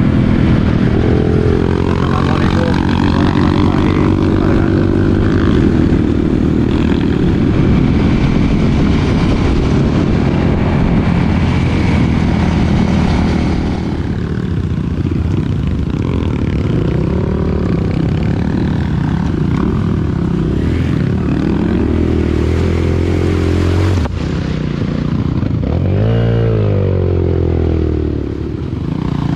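Dirt bike engine running under load on a trail ride, its revs rising and falling with the throttle, with a sharp rev up and back down near the end.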